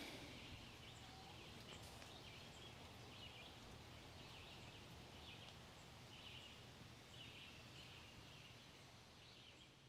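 Near silence: faint outdoor background noise with faint high chirps repeating about once a second.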